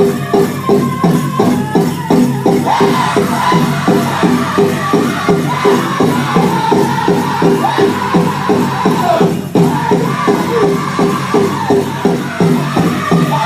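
Powwow drum group singing a song for the men's chicken dance, voices high over a steady, even beat on the big drum.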